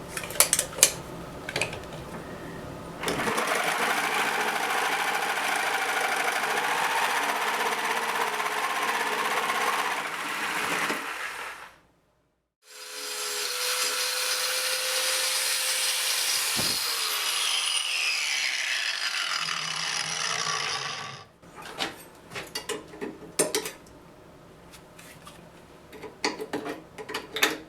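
Power grinder grinding away a section of 5/8-inch round steel bar stock, in two steady runs of about eight seconds each with a short gap between them. Light knocks and clicks from handling the metal come before and after.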